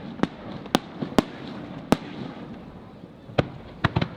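Aerial fireworks shells bursting in an irregular series of sharp bangs, about seven in four seconds with a lull near the middle, and a low rumble and crackle from the display between them.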